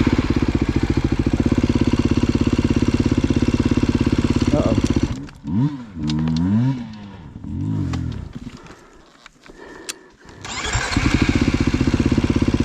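Off-road motorcycle engine chugging steadily at low revs. About five seconds in, its revs swing up and down several times, and then it goes nearly quiet for about a second before it picks up and runs steadily again near the end.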